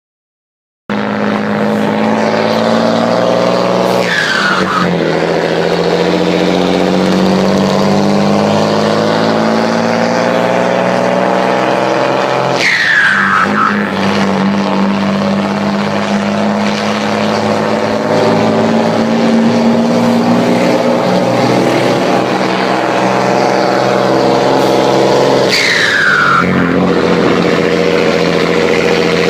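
Turbo-diesel engine of a Mercedes-Benz 1618 truck with a straight stainless-steel exhaust and a comb in the turbo, pulling through the gears. The engine note climbs steadily in each gear, and at three gear changes the turbo lets out a short whistle that falls in pitch as the note drops.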